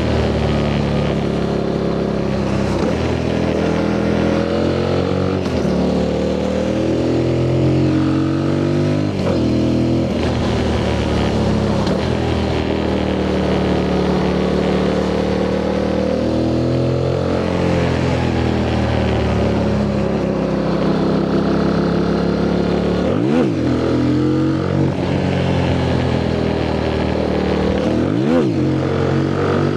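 Yamaha MT-07's 689 cc parallel-twin engine through its stock exhaust, pulling hard through the gears. The pitch climbs and drops back at each shift every few seconds. Twice near the end the pitch dips sharply and snaps straight back up as the throttle is closed and reopened.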